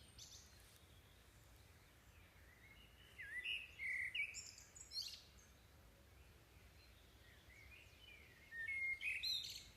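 Faint bird chirps and tweets in two short spells, one about three seconds in and one near the end, over a quiet low hum.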